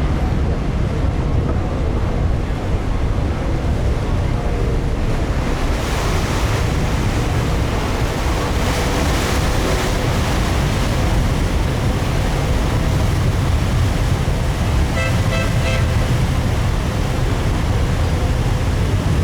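Passenger ferry under way: a steady low engine rumble mixed with wind and water rush on the microphone, with a faint steady hum over it.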